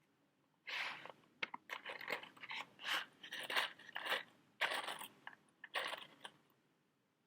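Close-miked, crunchy scratching and crackling from matches and their box being handled: an irregular run of short strokes starting about a second in and stopping near the end.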